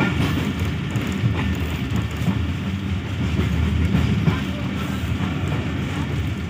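Passenger coach rolling slowly along the track, heard from inside the carriage: a steady low rumble with irregular wheel clacks as it runs over rail joints and points onto a station loop line.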